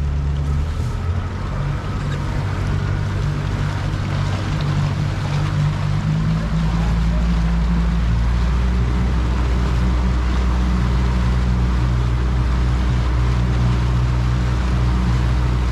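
Outboard motor of an aluminum fishing boat running steadily, with water and wind noise over it; the engine note changes about six seconds in and then holds steady.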